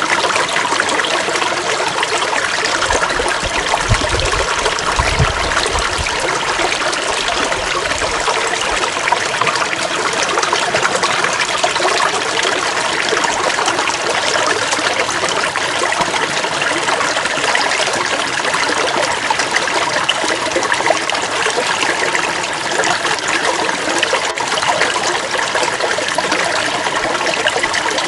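Flowing water trickling and splashing steadily, with a few low rumbles in the first several seconds.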